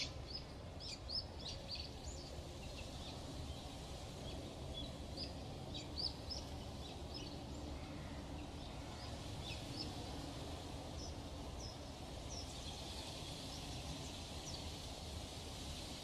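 Baby parrot chirping: many short, high calls in quick succession, densest in the first half and sparser later, over a steady low background noise.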